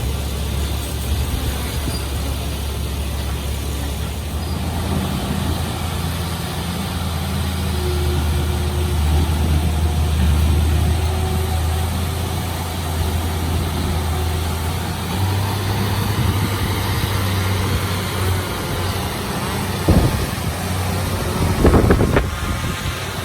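Heavy diesel engine of earthmoving machinery at work on a fill site, running continuously with its engine note shifting as the load changes. A few sharp clanks come near the end.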